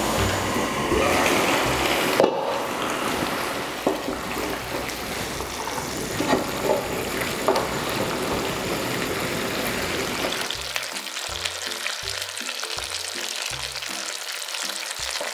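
Pork igado sizzling in its sauce in a nonstick pan while a wooden spoon stirs it, knocking against the pan a few times in the first half.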